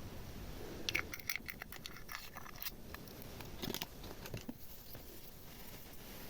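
Soft, quick clicks and crackles of small objects being handled over slime, in a cluster about a second in and a few more near the middle.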